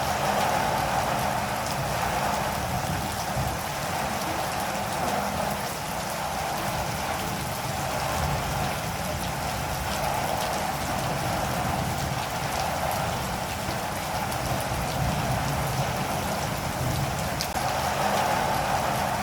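Steady rain falling, an even hiss with faint drop ticks throughout.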